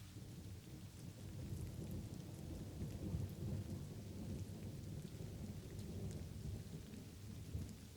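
Light rain falling steadily with a low, rolling thunder rumble that builds about a second in and rolls on until near the end.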